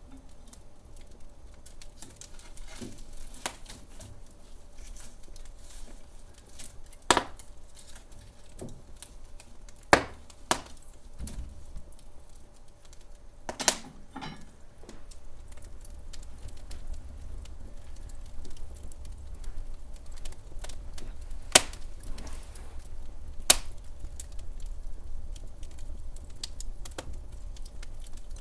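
Wood fire crackling in a fireplace: a low steady rumble under many small scattered crackles, with about five sharp, loud pops spread through.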